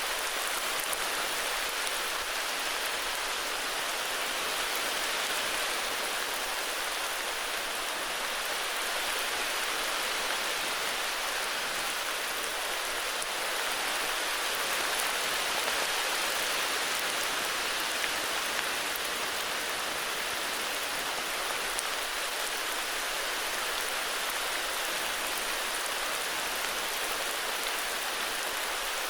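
Heavy rain falling steadily, a dense even hiss of drops with fine crackle and no thunder.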